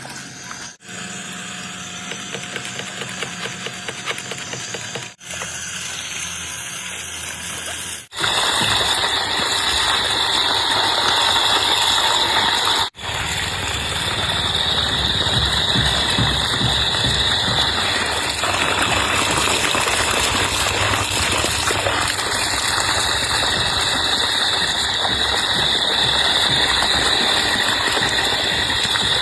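Tullu 1 hp electric water pump running with a steady mechanical whirr, quieter for the first several seconds and louder from about eight seconds in, with a few brief dropouts.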